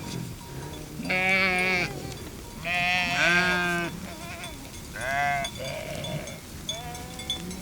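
Sheep bleating: about four loud calls in turn, two animals overlapping around three seconds in, over a steady low drone of further bleating.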